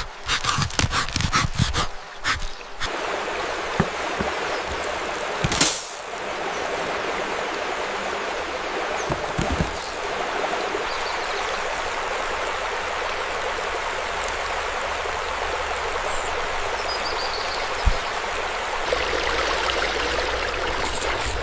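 Rapid sharp clicks and taps for about the first three seconds, then a stream of running water, steady through the rest.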